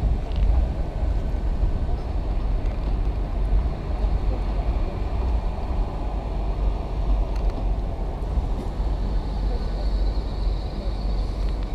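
Great Western Railway Hitachi Intercity Express train running past: a steady low rumble of its engines and wheels on the rails, with a faint high whine that builds in the last few seconds.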